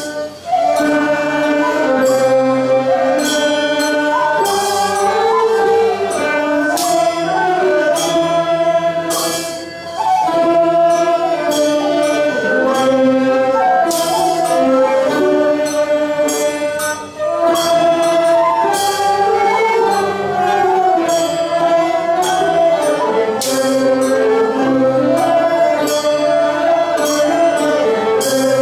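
Nanguan ensemble music: a slow sung melody over sustained, gliding instrumental lines, with a sharp clap about every four to five seconds, in the manner of the paiban clappers that keep the beat.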